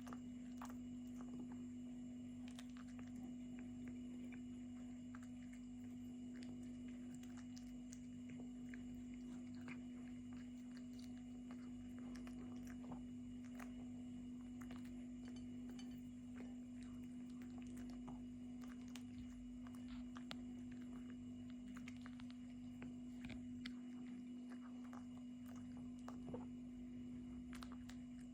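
A cat chewing and biting chicken: faint, irregular small clicks of teeth and mouth, over a steady low hum.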